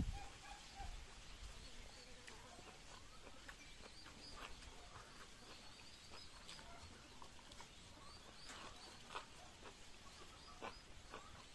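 Faint chewing and lip-smacking from someone eating rice and leafy greens by hand, in short scattered clicks, with faint bird chirps in the background.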